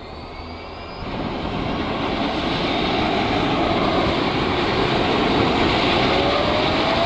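Rushing wind building up as a base jumper leaps and speeds up in freefall, then holding loud and steady, with a faint rising whistle in the second half.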